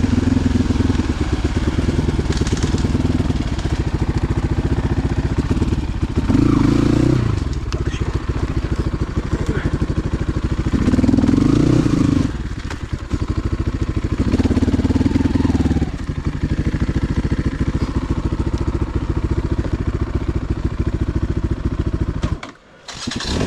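Motorcycle engine running, revved up three times in swells of a second or two, then cutting out suddenly near the end.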